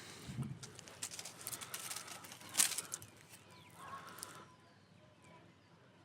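Campfire wood crackling and popping: a dense run of sharp cracks, the loudest about two and a half seconds in, dying down near the end.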